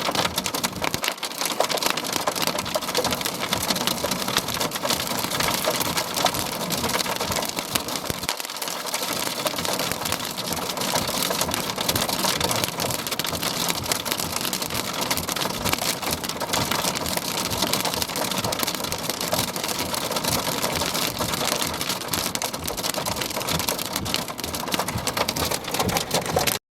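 Heavy rain pelting down, a dense steady patter of drops during a thunderstorm, cutting off suddenly at the very end.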